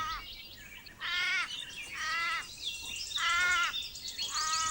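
An animal's short, harsh, pitched calls repeated about once a second, five in all, each dropping slightly in pitch, with a high buzzing trill behind them.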